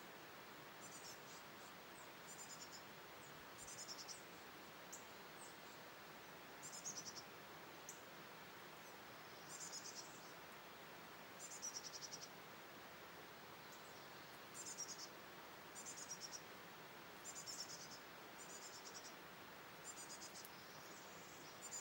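Small bird chirping at a feeder: short, high-pitched trilled chirps repeating irregularly every one to three seconds over a faint steady hiss.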